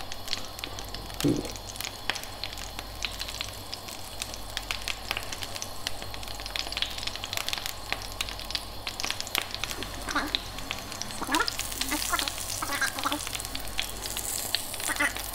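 Small sourdough-starter pancakes frying in hot rapeseed oil in a frying pan: a steady sizzle and crackle as spoonfuls of batter are added and spread out. A few short squeaks come in the second half.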